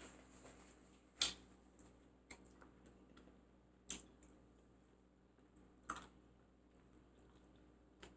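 Quiet close-miked eating sounds: a few sharp mouth clicks and smacks while chewing. The loudest comes about a second in, and two more follow about two seconds apart.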